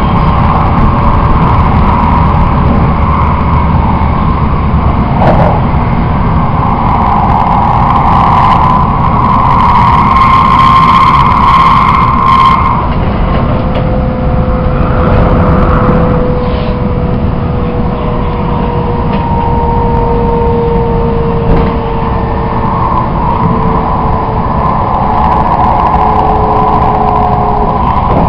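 Shinkansen bullet train heard from inside the passenger car at speed: a steady loud rumble of running noise, louder for a few seconds about ten seconds in. In the second half a thin whine slowly falls in pitch as the train slows.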